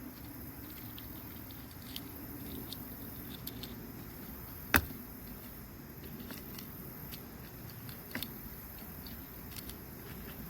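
Small clicks and taps from handling fishing hooks and a plastic hook holder, with one sharp click about five seconds in, over a steady faint outdoor hiss.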